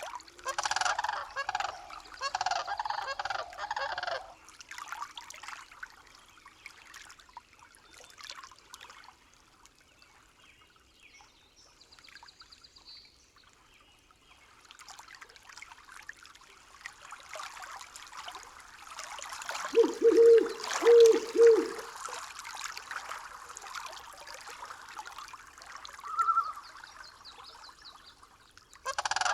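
Birds calling in a nature soundscape: a cluster of calls in the first few seconds, then a run of four loud, low calls about twenty seconds in, over a soft hiss.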